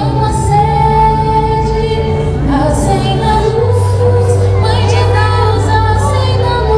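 Voices singing a festive folk song over instrumental accompaniment with long held low notes.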